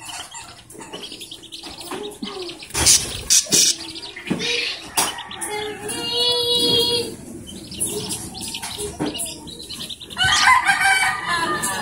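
A bird calling: one long, steady-pitched call about six seconds in, with several sharp knocks a few seconds earlier.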